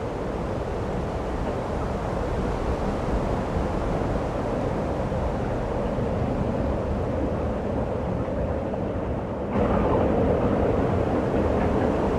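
Steady rushing of blizzard wind, which gets abruptly louder and brighter about three-quarters of the way through.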